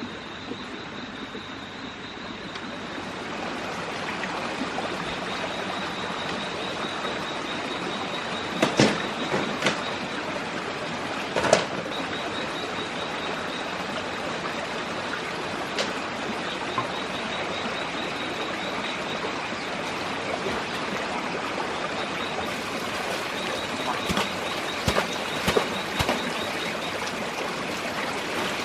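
Steady rushing noise like running water, with a high, faintly pulsing tone over it and a few sharp knocks, two of them close together about nine and eleven seconds in.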